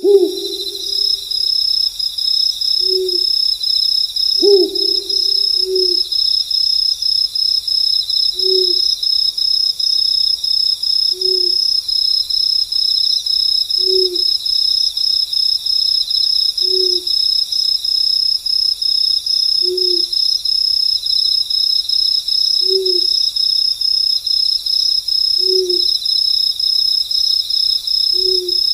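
Crickets chirping in a steady, high, pulsing chorus, with an owl giving short low hoots about every three seconds. Two louder hoots come at the very start and about four and a half seconds in.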